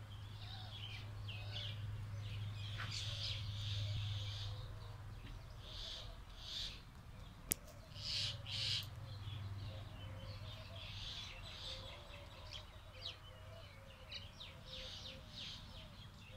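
Birds chirping and calling over and over in short bursts, with a steady low hum underneath. There is one sharp click about seven and a half seconds in.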